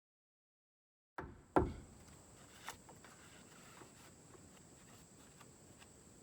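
Silence, then two dull knocks in quick succession, the second the louder, and a lighter click about a second later, followed by faint scattered ticks over a quiet background.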